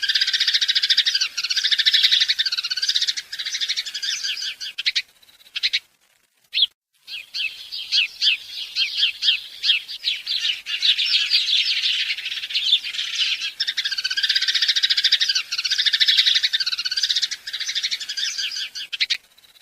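Many small birds chirping rapidly together in a dense, high-pitched chatter. It breaks off for about a second and a half around six seconds in, then resumes.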